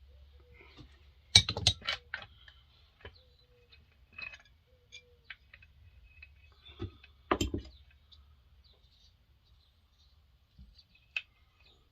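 Hand tools and small metal parts clicking and knocking while the handle bolts are taken out of a McCulloch 7-10 chainsaw. The sharpest knocks come about a second and a half in and again about seven and a half seconds in, with scattered lighter ticks between.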